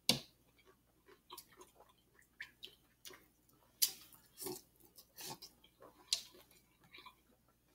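Close-up mouth sounds of a person chewing and biting food, with irregular short smacks and crunches.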